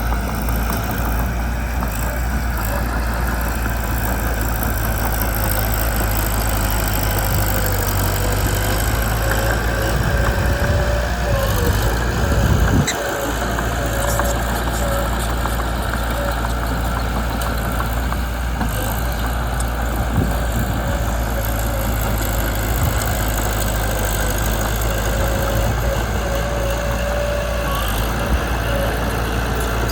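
Mitsubishi BD2 bulldozer's diesel engine running steadily, with a brief louder surge about ten to thirteen seconds in that drops off sharply.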